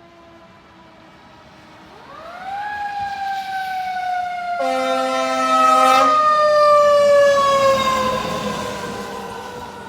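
Fire truck siren winding up quickly and then falling slowly in pitch, loudest partway through as the truck comes close. A long air-horn blast sounds over it for about a second and a half.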